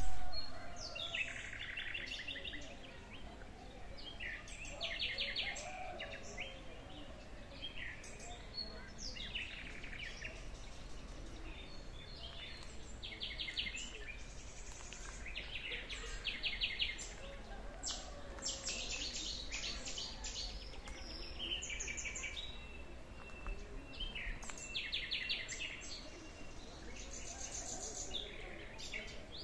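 Songbirds singing in spring countryside, one bird repeating a short rapid trilled phrase every few seconds among scattered other calls, over a faint low rumble.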